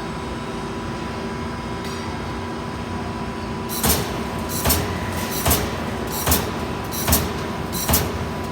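Amada Pega 367 CNC turret punch press running with a steady hum, then starting to punch about four seconds in: six sharp punch strokes, a little under a second apart.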